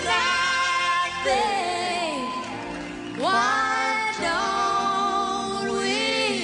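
Music with singing: long, held vocal notes that slide between pitches.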